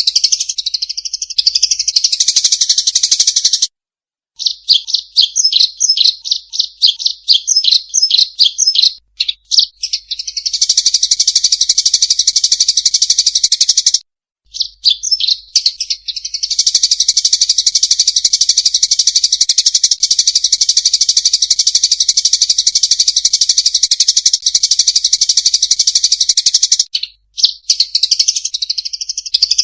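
Eurasian tree sparrows giving rapid, agitated fighting chirps in a dense, nonstop chatter, breaking briefly three times. In the middle of the first part the chirps come as separate quick notes before running together again.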